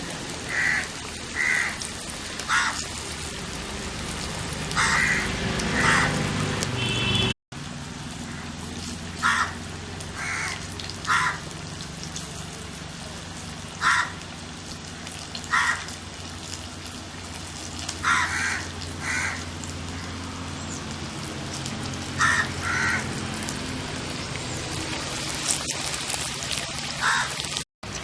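Crows cawing again and again, short single caws a second or several seconds apart, over the steady sizzle of chicken vadas deep-frying in oil.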